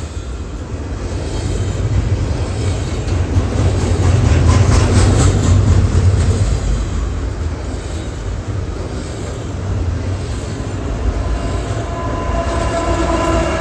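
Double-stack container freight train rolling past, a steady low rumble with the wheels clicking over the rail. Near the end a held tone with several pitches comes in over it.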